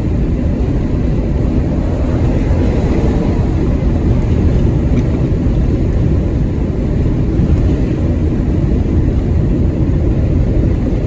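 Steady low rumble of a truck driving at motorway speed: engine and road noise, as heard from inside the cab.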